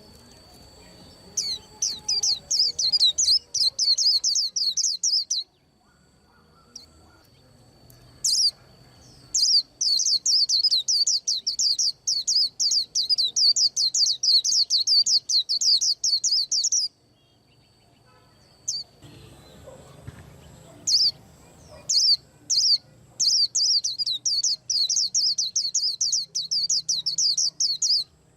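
White-eye singing in long, rapid runs of high, quickly repeated chirping notes, three bouts with short pauses between them.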